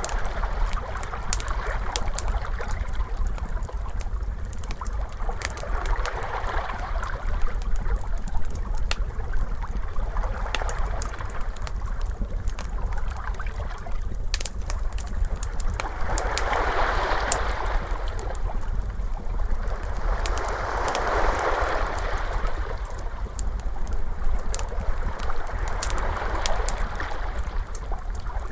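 Wood fire crackling with scattered sharp pops, over ocean waves washing in and out every few seconds, the biggest swells past the middle.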